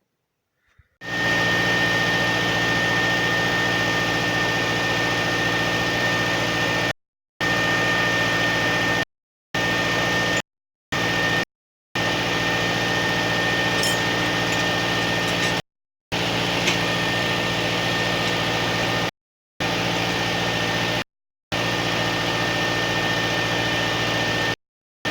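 An engine running steadily at a constant speed, with a steady high whine over it. It starts about a second in and cuts to complete silence briefly about eight times.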